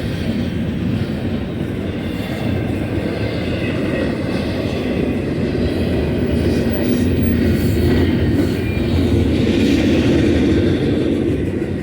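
Freight train of double-stack container cars rolling past on the mainline, its wheels on the rails making a loud steady rumble with faint high tones above it.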